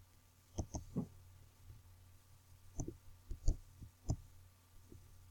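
Computer mouse clicking: about nine short, sharp clicks, some in quick pairs, over a faint steady hum.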